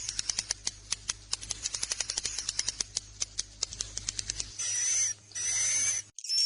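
Recorded swiftlet calls of the kind played as a roosting lure in swiftlet houses: a rapid run of dry clicks, then from about four and a half seconds in two high, thin chirping calls.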